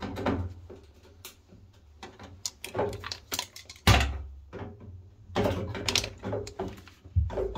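Irregular knocking and clattering of hard objects being handled, with one heavy thump about four seconds in.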